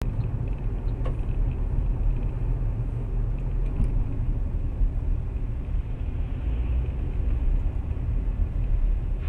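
Steady low rumble of a car driving on the road, with a few faint ticks.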